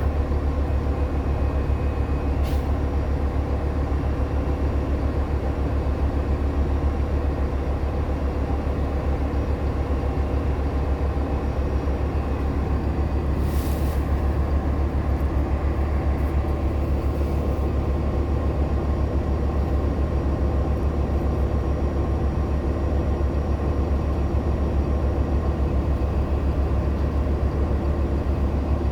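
Interior of a 2014 Nova Bus LFSA hybrid transit bus under way: a steady low drone from its Cummins ISL9 diesel and Allison hybrid drive, with road noise. A faint high tone stops with a click a couple of seconds in, and there is a short hiss about halfway through.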